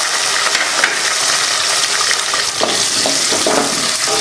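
Shallots, curry leaves and dried berries sizzling in hot sesame oil in a metal pot. About halfway through, a wooden spatula starts stirring them, with scraping against the pot over the steady frying hiss.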